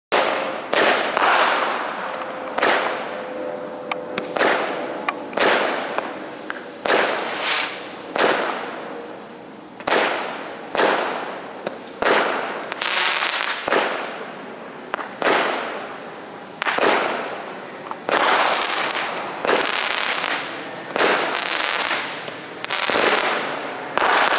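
A multi-shot consumer fireworks cake firing shot after shot, roughly one a second. Each shot is a sharp report followed by a hiss that fades within a second.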